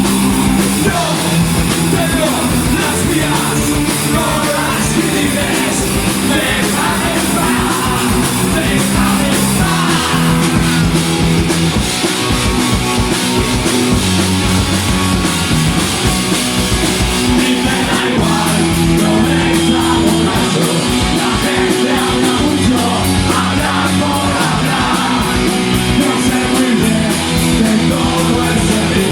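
Punk rock band playing live: electric guitar, bass and drums with a singer, loud and unbroken.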